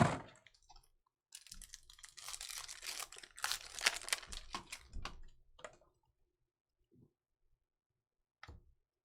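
Plastic and foil trading-card packaging crinkling and tearing as a box of cards is unwrapped and its packs ripped open. A dense run of crackles starts about a second in and stops after about four and a half seconds, followed by a couple of faint knocks.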